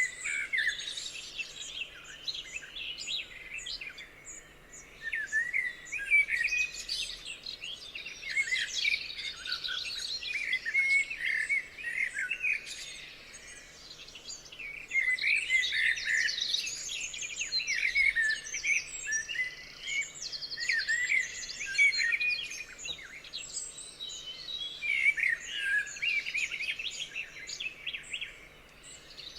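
Several songbirds singing at once, a dense chorus of overlapping chirps and quick warbled phrases that swell and fade.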